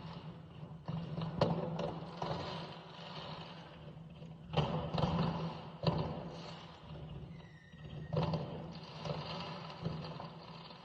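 Fireworks going off in the street: several sharp bangs at irregular intervals, each trailing off over a second or so, over a steady rough background.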